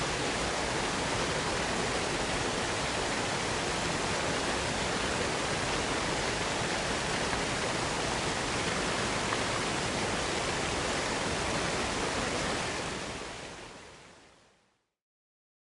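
Steady rushing white noise of waterfalls, fading out to silence near the end.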